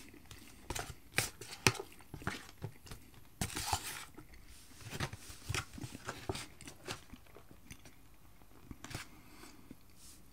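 Chewing a mouthful of loaded waffle fries and battered chicken, with irregular crunches and the clicks of a fork picking at food in a tray.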